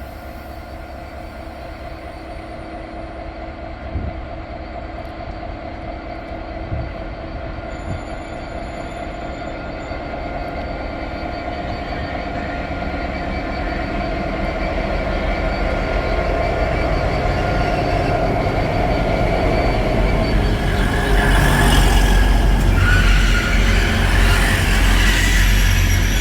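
A diesel train's engine and wheels on the rails, growing steadily louder, with two short knocks about four and seven seconds in. A higher-pitched wheel squeal comes in about three-quarters of the way through.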